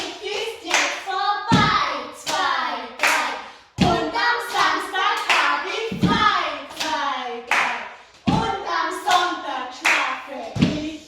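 Group of young children singing together, with hand claps marking the song's rhythm.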